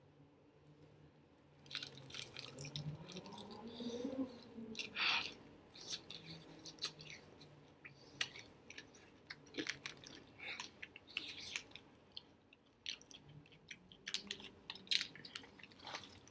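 Close-up crunching and chewing of extra-crispy fried chicken wings, with irregular crisp crackles of the fried skin starting a little under two seconds in.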